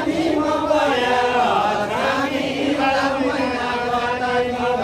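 A group of voices chanting a Deuda folk song together in long, held, gliding lines.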